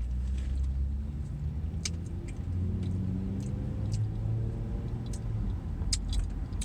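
Car engine and road rumble heard from inside the cabin as the car accelerates: the engine pitch rises for a few seconds, then drops. A few sharp clicks sound over it.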